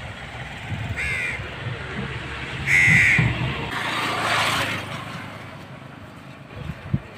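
A bird calling twice: a short call about a second in, and a louder, longer one near three seconds, over a low rumble that stops shortly after.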